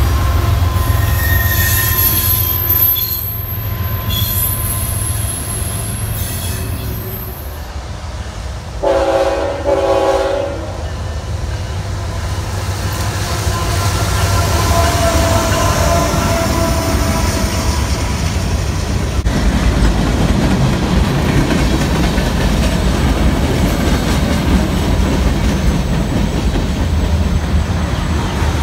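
CSX diesel freight train passing, with steel wheels squealing in the first few seconds. About nine seconds in, a locomotive horn sounds two short blasts. After that comes the steady rumble and clatter of freight cars rolling by.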